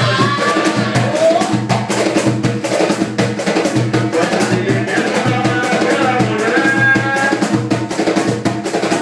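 Band playing upbeat music: a steady drum beat with busy, sharp percussion and a melody line over it.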